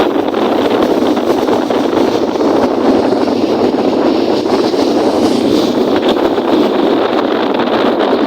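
Strong wind blowing across the microphone in a steady, loud rush, mixed with the wash of wind-driven lake waves.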